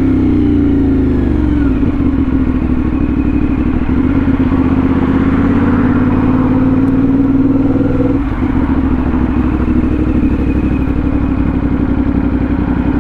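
CFMOTO 450SS parallel-twin engine running through an aftermarket slip-on exhaust while the bike is ridden. The engine note falls over the first two seconds, holds steady with a slight climb, dips briefly about eight seconds in, then runs on steady.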